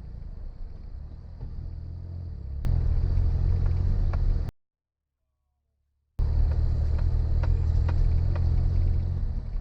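Suzuki Jimny driving, a steady low rumble of engine and tyres with scattered light ticks. It gets louder a little under a third of the way in, then cuts out completely for under two seconds before resuming.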